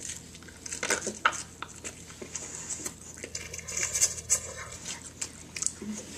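Close-up chewing of a breaded fried chicken strip: a run of irregular soft crunches and wet smacking clicks from the mouth.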